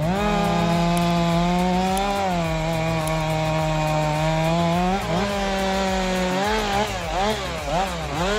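Chainsaw engine running under load as it cuts wood, holding a steady pitch, then revving up and down several times over the last couple of seconds.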